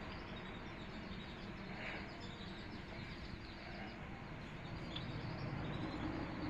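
Small birds chirping in quick, repeated high notes over steady background noise.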